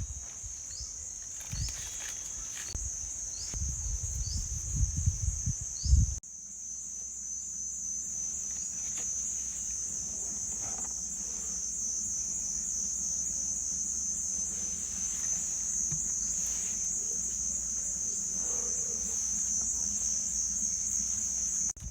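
Chorus of insects trilling continuously at a high pitch. During the first six seconds there are also short falling chirps and a low rumble, which stops abruptly about six seconds in.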